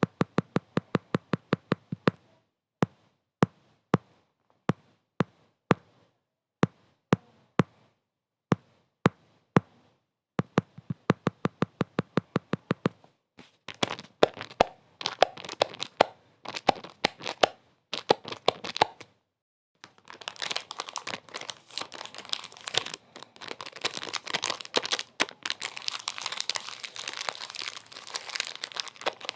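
Crisp crackling and crinkling, like something being crumpled. It starts as quick runs of sharp snaps, about eight a second, with slower single cracks between them. After a brief silent gap about two-thirds through, it turns into dense, continuous crackling.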